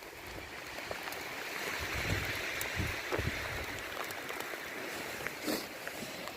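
Steady rain falling hard, with wind gusts rumbling on the microphone and scattered ticks of drops.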